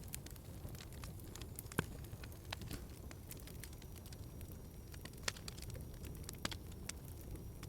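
Wood fire crackling in a fireplace over a low steady rumble, with sharp pops scattered at irregular intervals. The loudest pop comes about two seconds in and another a little past five seconds.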